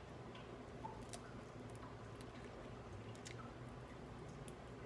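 Faint mouth sounds of someone chewing and biting a piece of air-fried chicken, with a few soft, scattered clicks over a low steady hum.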